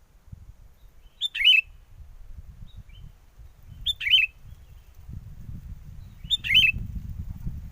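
Sooty-headed bulbul (kutilang) calling: three short phrases of quick notes, about two and a half seconds apart. A low wind rumble on the microphone grows stronger in the second half.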